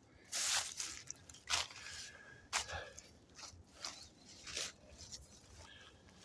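Footsteps crunching over the rough ground of a riverbank: about five uneven steps, the first the loudest.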